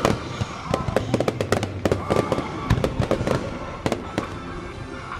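Starmine fireworks going off in quick succession: a dense run of sharp bursting reports and crackle, thinning out over the last couple of seconds.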